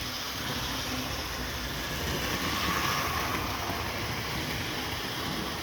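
Hornby 00 gauge model locomotives running round the track, a steady whirring of the motors and rolling wheels on the rails.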